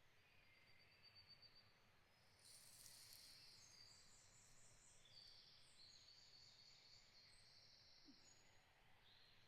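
Faint, high-pitched songbird singing: a short thin trill, then from a few seconds in a longer run of quick stepped high notes.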